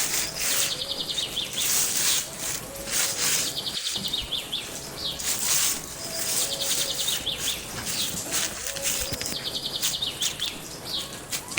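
Outdoor chirping birds: high-pitched chirps and a rapid trill that repeat about every two seconds, over a steady hiss.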